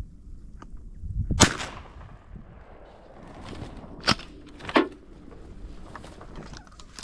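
Three sharp cracks, the first about a second and a half in and the loudest, the other two close together near the five-second mark, over a low rumble of wind on the microphone.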